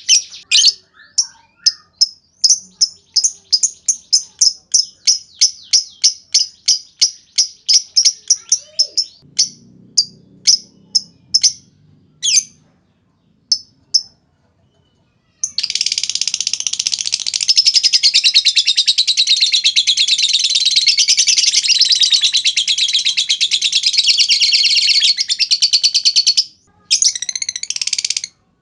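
Lovebirds calling. First comes a fast, even run of sharp high chirps (the "ngetik" call), which thins to a few scattered chirps. Then about eleven seconds of unbroken rapid chattering (a long "ngekek"), the loudest part, breaks off and returns briefly near the end.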